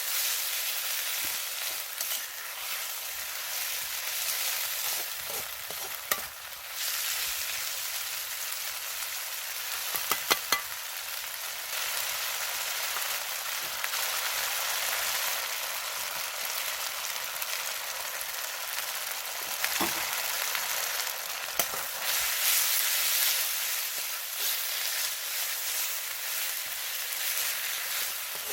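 Pork and green peppers sizzling and being stir-fried in a hot Chinese wok, a steady hiss of frying with a few sharp clicks and knocks along the way.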